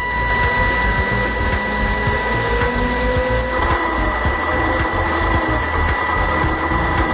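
A small electric motor whirring steadily, with a constant high-pitched whine and slight rises and falls in speed.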